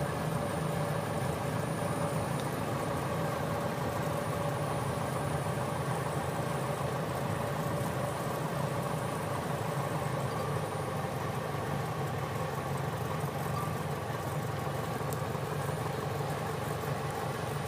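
Light aircraft engine idling steadily, heard from inside the cabin while holding short of the runway.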